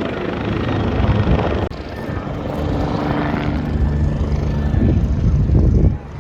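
Helicopter flying over: a loud, steady rotor and engine rumble with a faint steady hum in it.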